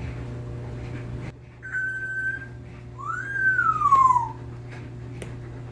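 African grey parrot whistling: a short level note, then a longer, louder note that rises and then falls away.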